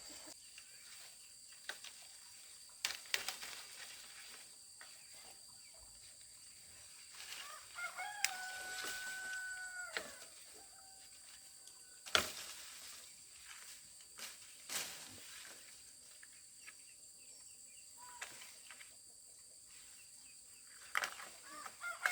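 A rooster crows once, about eight seconds in: a call of about two seconds ending in a long held note. Sharp knocks sound a few times around it, the loudest about twelve seconds in.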